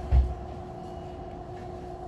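Subway train standing at a station platform, its equipment giving a steady electrical hum over a low rumble, with one short, heavy low thump just after the start.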